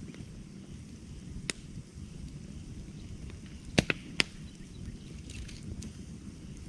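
Wood campfire burning with a steady low rumble and sharp crackles: a single pop about a second and a half in, then three loud snaps in quick succession around the middle.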